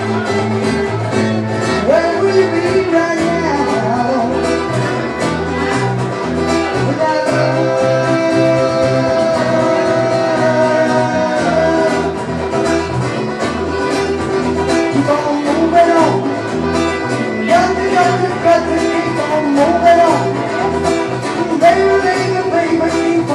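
Live band playing a rock song: electric lead guitar with bent, sustained notes over bass and acoustic guitar, with a steady beat.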